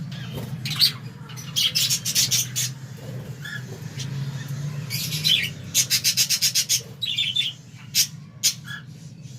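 A colony of budgerigars chirping and squawking, sharp high calls scattered through, with a fast run of rapid chirps about six seconds in. A steady low hum runs underneath.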